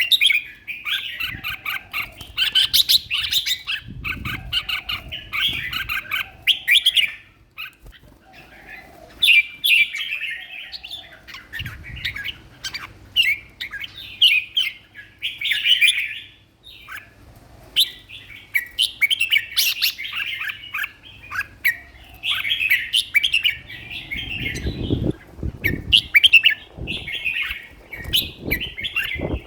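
Red-whiskered bulbul singing over and over in quick, short phrases with brief pauses between them. A few low thuds, the loudest about 25 seconds in.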